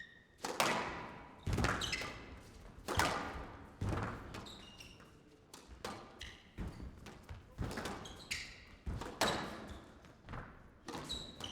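Squash rally: the ball struck by rackets and smacking off the court walls, sharp hits about once a second with short high squeaks among them, echoing in the hall.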